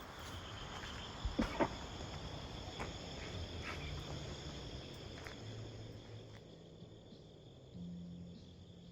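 Crickets chirring steadily in a continuous high-pitched chorus, with a few sharp clicks or knocks, the loudest two about a second and a half in.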